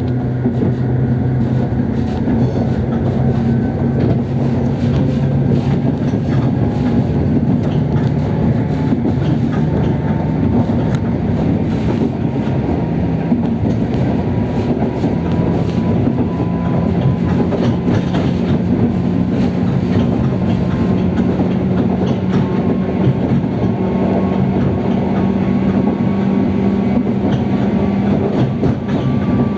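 JR 103 series electric train's traction motors growling as it runs, their whine rising slowly in pitch as the train gathers speed, over the rumble and clicking of wheels on the rails.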